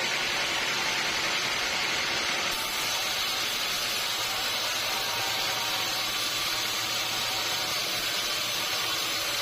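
Sawmill machinery running with a steady noise while teak logs are sawn; a low hum joins about four seconds in.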